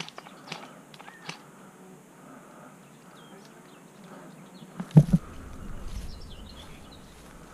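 Faint bird chirps over a quiet outdoor background, with a few light crackles early on. About five seconds in there is a sudden loud thump, followed by a short low rumble.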